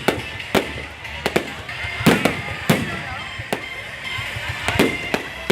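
Aerial fireworks going off: about ten sharp bangs at irregular spacing, some in quick pairs.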